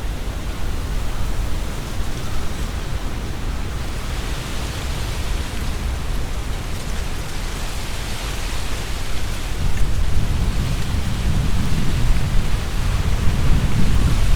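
Strong wind gusting through trees, setting the leaves rustling in a steady hiss that swells and eases. A low rumble of wind buffeting the microphone grows stronger about ten seconds in.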